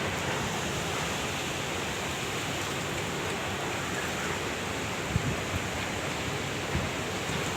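Heavy rain falling in a steady, even hiss during a windy rainstorm, with a few brief low gusts buffeting the microphone about five seconds in and near the end.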